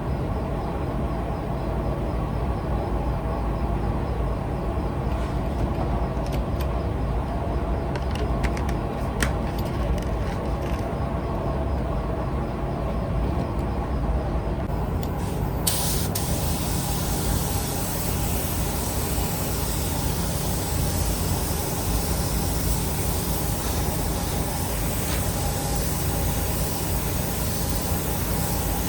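Steady low machine hum throughout, joined about halfway through by a continuous hiss of compressed air, typical of an air-fed paint spray gun.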